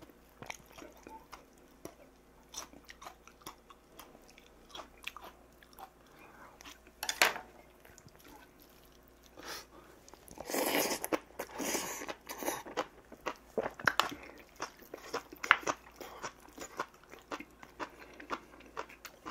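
A man chewing mouthfuls of rice and soybean stew, with many small clicks of eating and a sharp click about seven seconds in; the chewing is loudest for a couple of seconds just after the halfway point, as a spoonful goes into his mouth.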